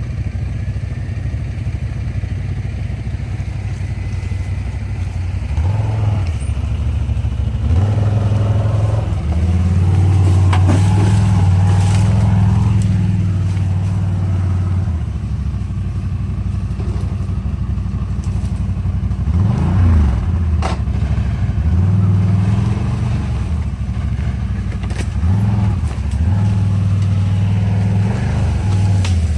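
A motor vehicle engine running, its pitch and loudness stepping up and down several times as the throttle is opened and eased, with a few brief knocks.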